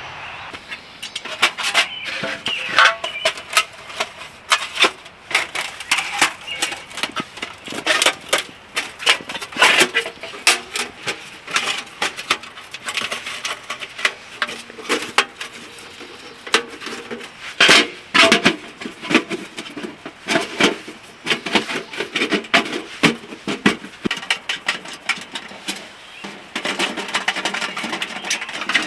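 Irregular clatter of clicks and knocks from a camp wood stove and its metal parts being handled and assembled.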